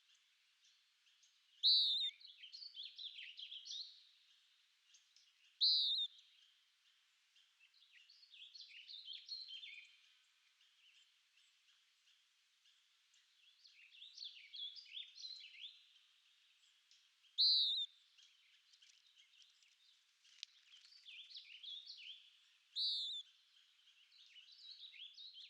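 Songbirds singing: four loud, clear notes, each opening a quick warbling phrase, among quieter twittering.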